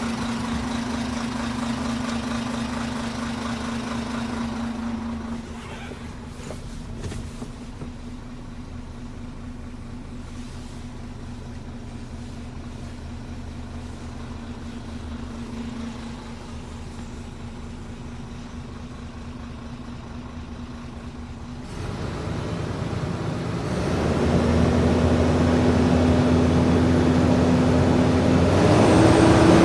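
Isuzu Forward truck's diesel engine idling steadily. It is quieter for a long stretch in the middle, grows louder from about two thirds of the way in, and the revs step up near the end.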